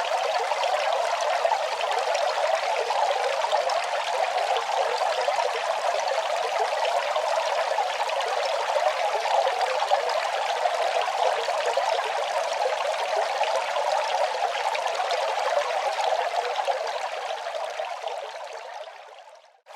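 Running water, a steady rushing flow that fades out over the last couple of seconds.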